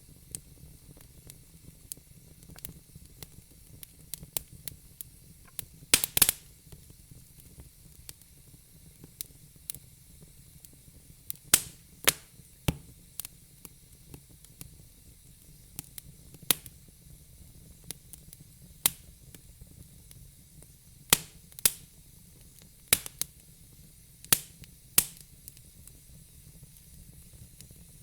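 Wood burning in a fire pit, the logs crackling with scattered sharp pops over a faint steady hiss; a quick cluster of loud pops comes about six seconds in, with more through the second half.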